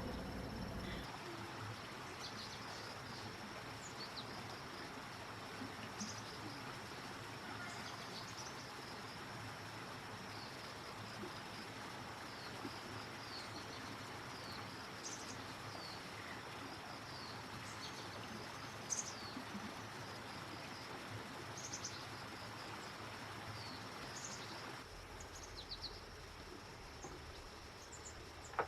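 Forest ambience: a steady, high insect drone with short bird chirps and calls scattered throughout, over an even background hiss.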